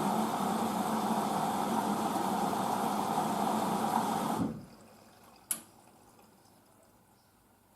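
Hoover DYN9144D3X washing machine filling with water at the start of its wash cycle: a steady rush of water with a hum that cuts off suddenly about four and a half seconds in, followed a second later by a single sharp click.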